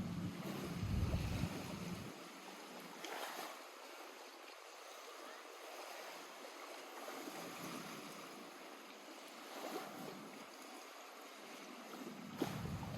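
Small lake waves lapping at the shore in a soft, steady wash, with a few louder swells. A low rumble sits under it for the first two seconds.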